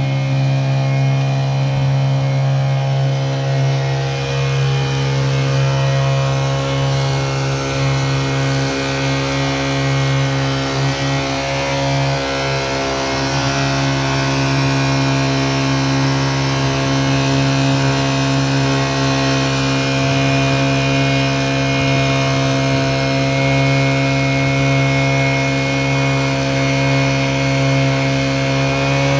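Small 35cc four-stroke petrol engine of a wheeled leaf vacuum cart running steadily at one speed.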